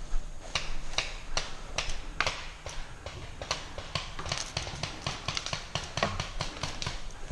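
Paintball markers firing: an irregular string of sharp pops, some in quick runs of three or four near the middle.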